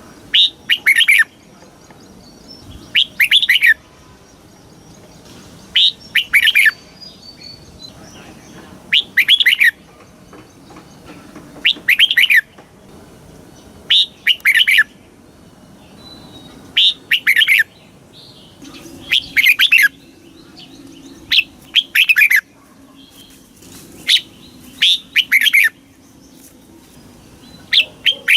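Red-whiskered bulbul singing: short, loud phrases of a few quick whistled notes, repeated about every two to three seconds.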